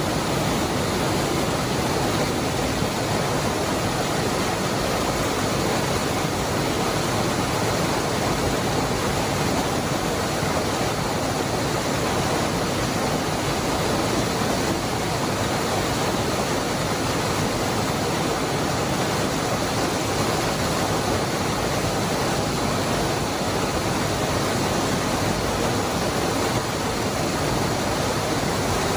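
Cascada del Hervidero waterfall: falling water making a steady, even rush with no breaks or changes.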